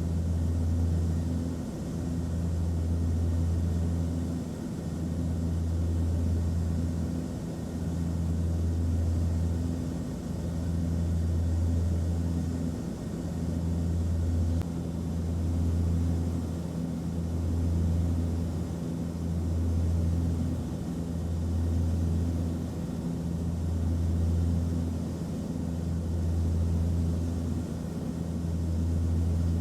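Aircraft cabin noise: a steady low engine drone with a deep hum that swells and fades about every two seconds, over a constant hiss of airflow.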